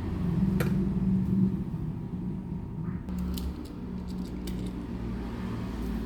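Small toy vehicles being handled: light clicks and rattles, one sharp click about half a second in and a cluster of clicks around three to four seconds, over a low steady hum.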